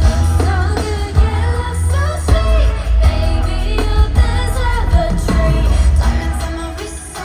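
Live pop music over a concert sound system: female singing over a loud, heavy bass beat, the bass dropping away near the end.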